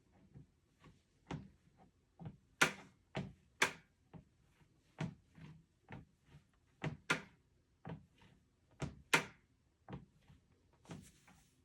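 Lifespan TR1200B treadmill deck knocking under each footfall, about two knocks a second, uneven, with some sharp loud clacks among duller thuds. The noise comes as the weight shifts on the deck, which the owner likens to a soft spot in the deck.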